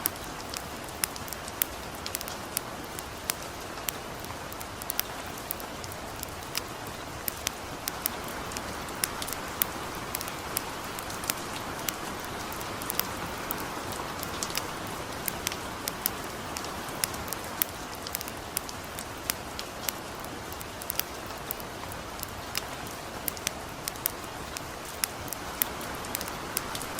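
Steady hiss of gentle rain, with irregular sharp crackles and pops from a campfire, about two or three a second.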